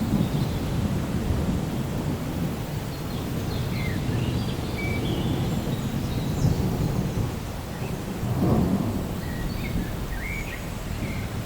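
Thunder rumbling low and continuously, swelling briefly about eight and a half seconds in, over steady rain.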